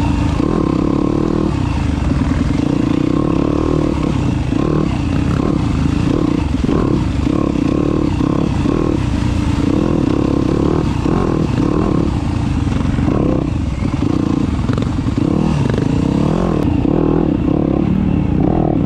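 Dirt bike being ridden: the motor runs steadily under varying throttle, with wind noise, for the whole stretch.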